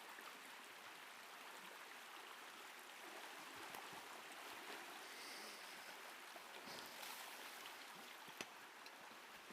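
Faint, steady rush of a flowing creek, with a few small clicks.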